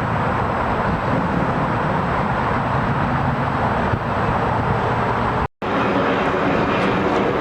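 Jet airliner engines running loud and steady, with a brief dropout about five and a half seconds in.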